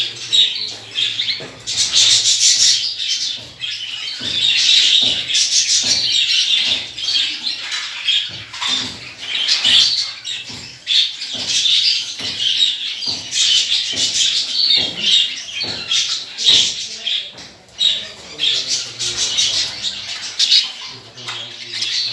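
Many small cage birds chirping and chattering together, a dense continuous twittering with some wing flapping.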